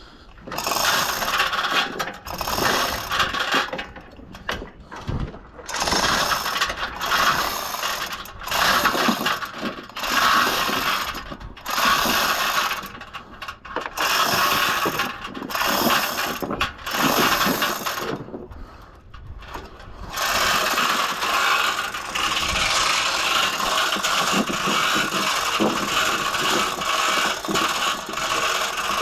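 A hand ratcheting mechanism clicking in repeated strokes, each about a second long with short pauses between, then worked almost without a break near the end.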